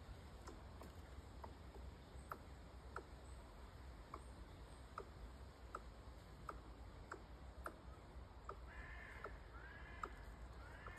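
Faint sharp clicks, roughly one every half second to second. Near the end comes a short run of distant bird calls: several quick arched notes.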